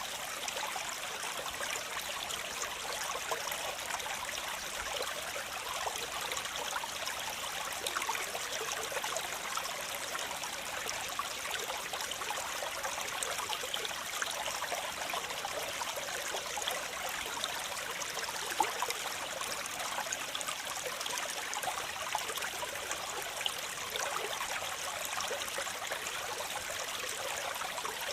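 Waterfall: steady rushing and splashing of falling water, full of small splashes, with one slightly louder splash about two-thirds of the way through.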